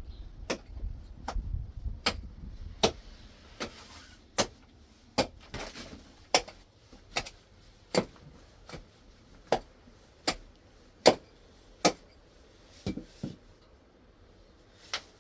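Sharp knocks repeating at a steady pace, a little more than one a second.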